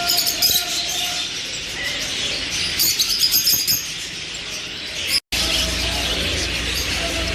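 Many caged birds chirping at once, a dense high-pitched chatter with bursts of rapid chirping at the start and about three seconds in. The sound cuts out for an instant about five seconds in, and a steady low hum runs under the chirping after that.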